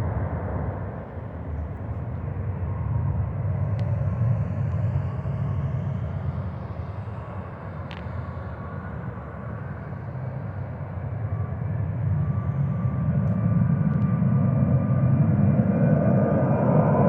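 Boeing 737-800's CFM56-7B turbofan engines at takeoff power, heard as a deep rumble with a rushing hiss that grows louder in the last few seconds as a faint whine comes in.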